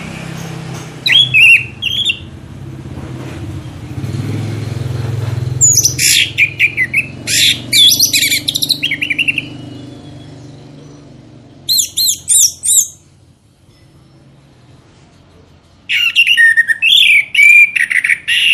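Songbird song in separate bursts of rapid chirps and quick falling whistled notes, with pauses between phrases. A low steady hum sits under the first half and then fades out.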